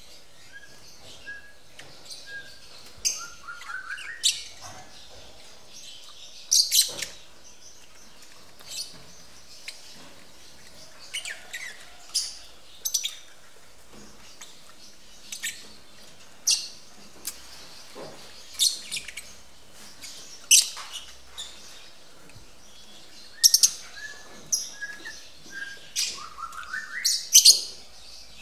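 Lovebirds giving short, shrill chirps at irregular intervals, with a couple of brief runs of rising squeaky calls.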